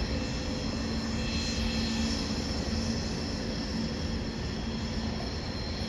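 Boeing 767's twin jet engines at takeoff power, a steady rumble with a held whine, slowly fading as the aircraft climbs away.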